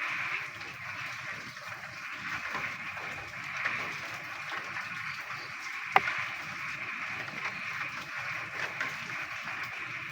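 A dense chorus of frogs croaking steadily in the rain. A single sharp click stands out about six seconds in.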